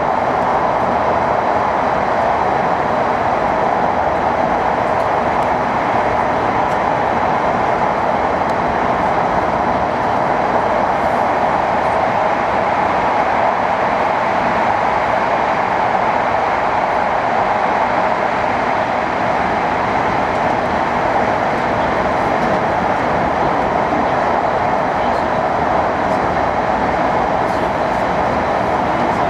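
Hokkaido Shinkansen train running at speed, heard inside a passenger car: a steady, even rush of running noise with no change in level.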